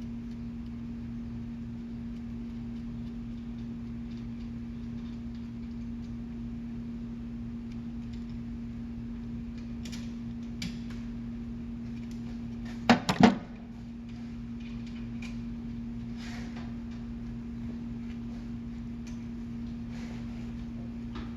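Hand tools working on a car's rear brake caliper bolts: scattered light clicks over a steady low hum, with a quick cluster of three loud knocks about thirteen seconds in.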